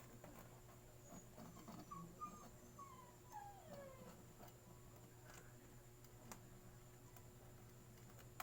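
Near silence with a steady faint hum. Around the middle comes a faint animal call gliding down in pitch, with a few faint clicks.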